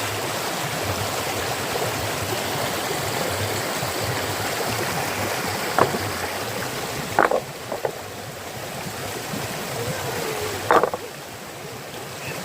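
Fast-flowing stream water rushing steadily, with a few short sharp knocks or splashes: one about six seconds in, two more around seven to eight seconds, and one near eleven seconds. The rushing gets a little quieter after the later knocks.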